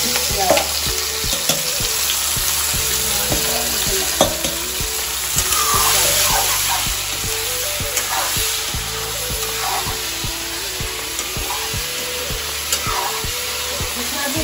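Pieces of raw eel sizzling in hot oil in a metal wok, stirred and turned with a metal spatula that taps and scrapes against the pan many times.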